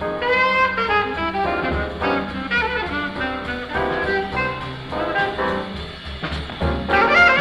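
Live bebop jazz from an old concert recording: horns playing fast, busy lines over a bass-and-drums rhythm section.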